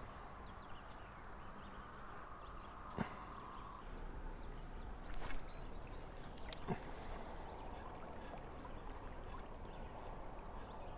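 Faint steady background noise with a few soft clicks and knocks.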